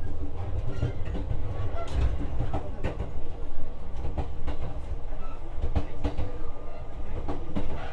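JR West 125-series electric railcar running along the line, heard from inside the passenger cabin: a steady low wheel-and-track rumble with a faint hum, broken by irregular clicks and knocks from the wheels passing over rail joints.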